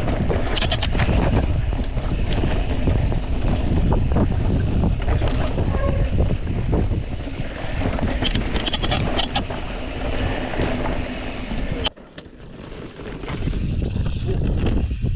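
Wind rushing over the microphone with the clatter and knocks of a mountain bike rolling fast over rocky trail. About three-quarters of the way through the rush cuts off suddenly, then builds again.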